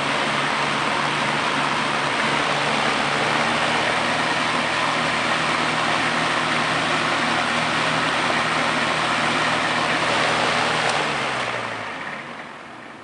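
Lakewood box fan with a GE motor running: a steady rush of air over a low motor hum. It is switched off about eleven seconds in, and the hum drops in pitch as the blades wind down.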